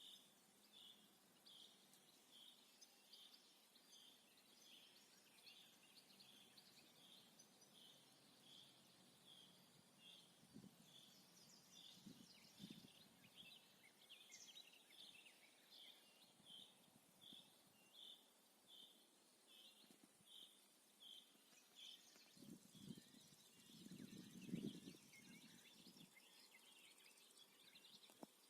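A songbird calling a short, high note over and over, a little more than once a second, until about three-quarters of the way through, with other birds chirping faintly. Near the end a few louder low rumbling sounds come and go.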